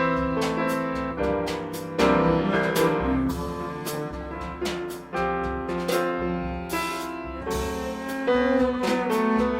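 Jazz combo playing an instrumental passage: piano chords over double bass and drum kit, with cymbal strokes throughout.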